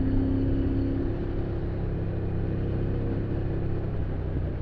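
Motorcycle engine running at a steady road speed, with wind and road noise. Its pitched hum weakens a little after about the first second.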